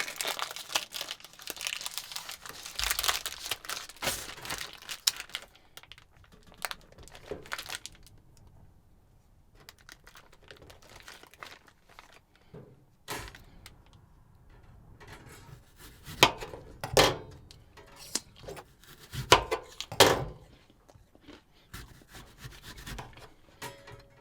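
Food packaging rustling and tearing, then scattered taps and knocks while a cheese and apple sandwich is made, with a few louder knocks about two-thirds of the way through.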